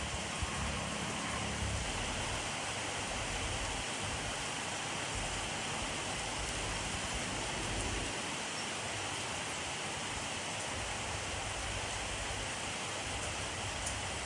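Steady rainfall, an even hiss of rain falling on surfaces with a low, uneven rumble underneath.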